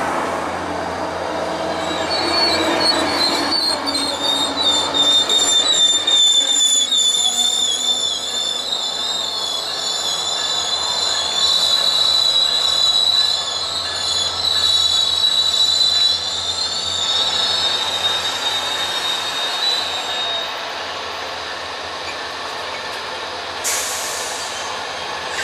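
Passenger train's wheels squealing as it rolls slowly into the station, a high wavering squeal over a steady rumble. The squeal begins about two seconds in and dies away after about twenty seconds, and a short hiss follows near the end.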